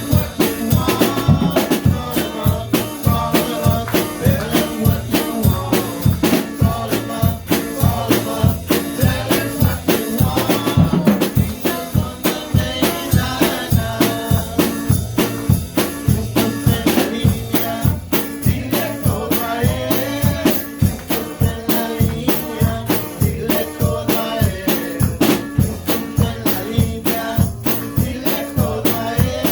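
Live worship band music: a drum kit keeps a steady beat under deep bass notes and melodic parts.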